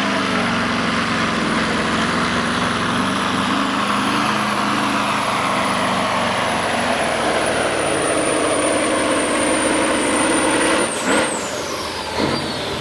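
Semi truck's diesel engine running hard under full load on a pull, with a loud, steady high turbo whistle over the engine noise. Near the end the whistle drops away as the engine comes off the throttle, with a short sharp burst of noise.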